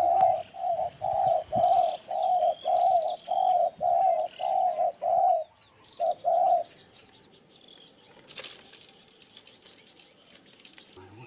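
Dove cooing: a run of about a dozen short, even notes, about two a second, that breaks off about five seconds in. Two more notes follow a moment later. After that there are only faint small chirps.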